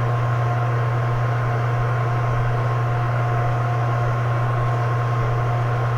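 Steady low hum with an even hiss and two faint, constant high tones, unchanging throughout.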